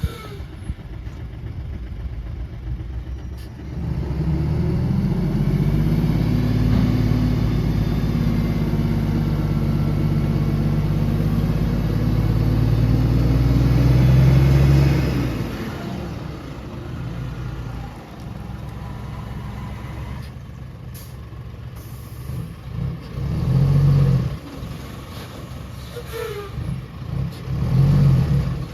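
Heavy diesel engine of earthmoving machinery working under load. It runs up hard at about four seconds and stays heavy for roughly twelve seconds, its pitch rising and falling, then drops back to a lower running note. Two brief revs come near the end.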